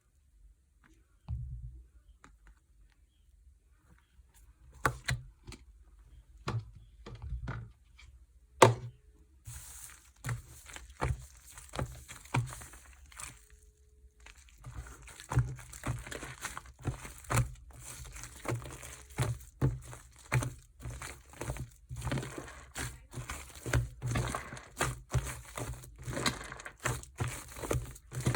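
Slime being pressed and squished by hand, making sticky clicks and crackling pops of trapped air. The clicks are sparse at first; about halfway through they become a quick, regular run of squishes.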